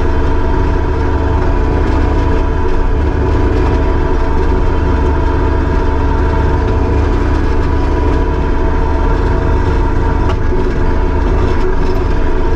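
Kubota SVL75-2 compact track loader's four-cylinder diesel engine running at a steady speed, loud and even.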